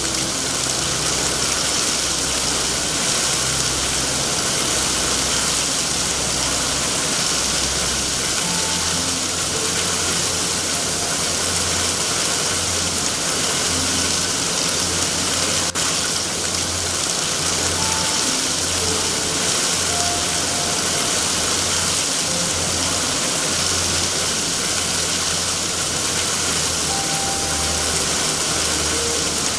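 Steady heavy rain, a dense even hiss, with a low rumble underneath that swells and fades every second or so.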